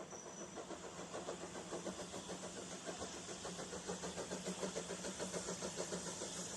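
Railway locomotive running with a fast, even beat over a steady low hum.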